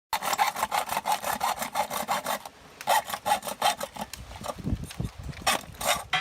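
Hacksaw sawing through metal in quick back-and-forth strokes, with brief pauses about two and a half seconds in and again near four seconds.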